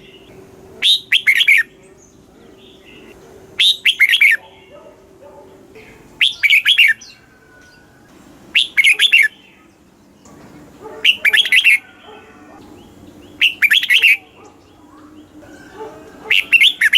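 Red-whiskered bulbul singing short, bright warbled phrases, seven in all, one about every two and a half seconds.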